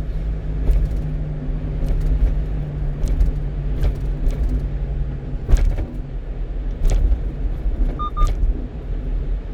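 A 1-ton truck driving on a city expressway: steady engine and road rumble with a few brief thumps spread through. A short electronic beep comes about eight seconds in.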